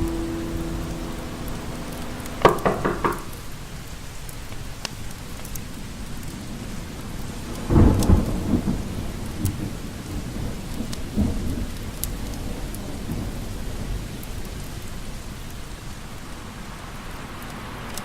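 Steady heavy rain falling in a thunderstorm, with a couple of louder sudden crashes, the bigger one about eight seconds in with a deep rumble of thunder.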